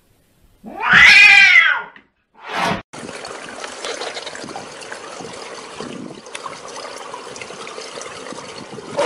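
A domestic cat gives one loud, drawn-out yowl that rises and falls in pitch about a second in, followed by a short second sound; then a steady wash of swimming-pool water takes over.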